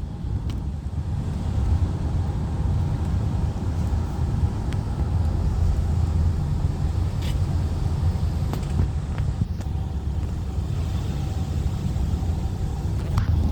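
Steady low rumble of a vehicle engine, with a few faint clicks.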